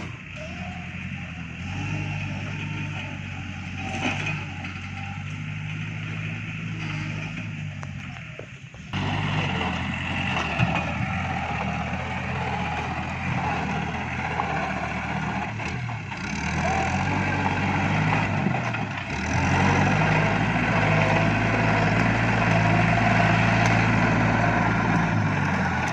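Iseki NT554 tractor's diesel engine running under working load with a grapple, its pitch and loudness shifting as it works, getting suddenly louder about nine seconds in and again near the twenty-second mark.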